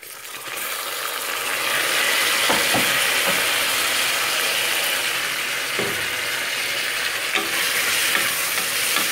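Chopped tomatoes hitting hot ghee and browned onions in an aluminium pressure cooker, setting off a loud sizzle the moment they go in that swells over the first couple of seconds. A few short knocks come as a wooden spatula stirs them in the pot.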